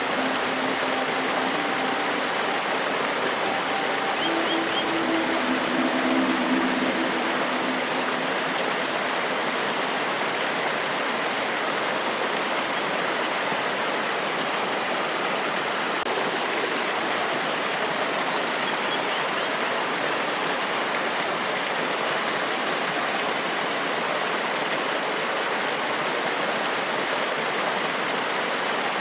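Forest waterfall and stream water rushing steadily. A low droning hum sits under it for the first several seconds and fades away, and a few faint high bird chirps come through now and then.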